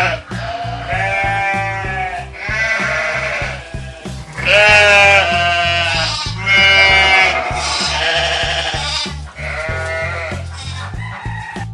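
A run of bleating calls, each a wavering, quavering cry lasting about a second, repeated over and over, over background music with a steady low beat.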